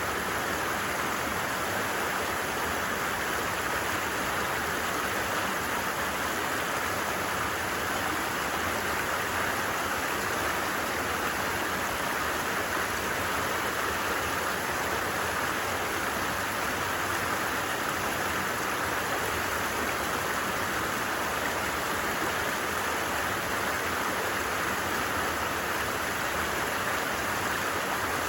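A stream's water flowing steadily over stones, an even, unbroken splashing hiss.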